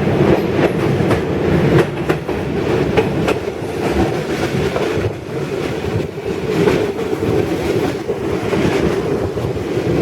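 A train running along the track: a steady rumble from the moving carriage, with repeated clicks and knocks of the wheels over the rails.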